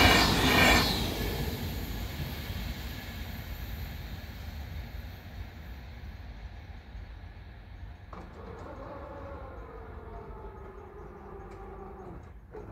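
České dráhy InterJet passenger coaches rolling past on the track. The loud rumble ends about a second in and then fades slowly into the distance. About eight seconds in, the level-crossing barrier drives start: a motor whine that falls slowly in pitch as the booms lift, breaking off briefly near the end.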